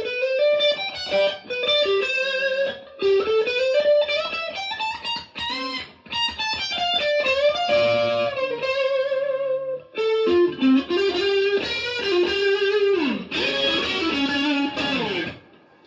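Stratocaster-type electric guitar played through a Marshall DSL40C valve combo amp: a single-note lead melody with wide vibrato and string bends, including a long downward bend near the end. The playing stops just before the end.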